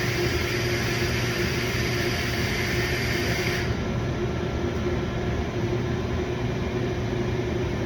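Steady mechanical hum with a hiss over it that cuts off suddenly about three and a half seconds in.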